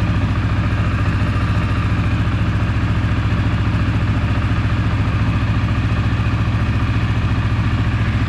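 CFMoto CF400 quad bike's single-cylinder four-stroke engine idling steadily with an even, fast pulse, running to circulate fresh oil through a newly changed oil filter.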